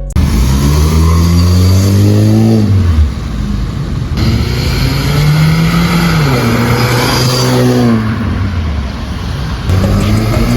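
Honda Civic engine heard through a full stainless-steel exhaust system with a muffler, revving up twice. The pitch climbs for a few seconds and drops off sharply. It then climbs again, holds, and falls away.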